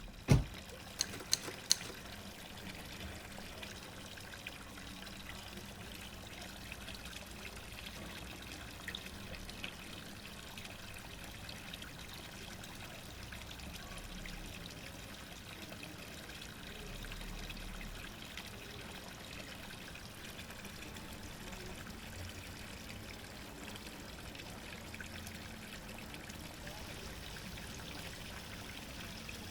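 A door slammed shut with one sharp bang, followed by a few light clicks over the next second or so. After that a steady rushing, trickling noise continues.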